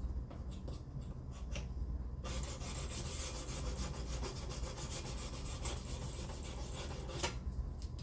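A 600-grit stone on a Professional Precision Adjust guided sharpener being stroked rapidly along a steel knife edge, a dense gritty scraping. A few light clicks come first, the scraping starts about two seconds in and stops about a second before the end.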